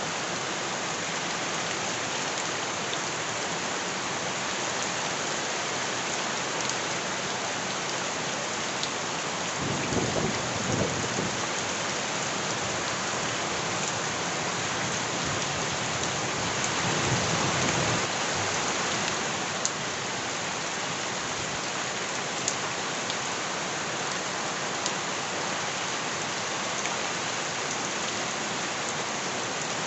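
Steady rain falling, with two louder rolls of thunder, about ten and seventeen seconds in, and a few sharp ticks of drops later on.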